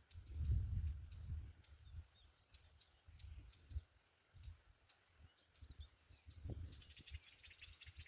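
Small birds chirping in short, high notes, with a fast run of ticking chirps near the end. Low rumbling gusts, loudest in the first second or so, sound like wind on the microphone.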